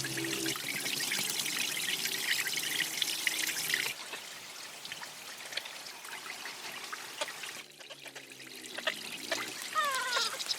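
Water trickling and pouring, with fine splashing, then cutting suddenly to a quieter trickle about four seconds in. A few short falling calls come near the end.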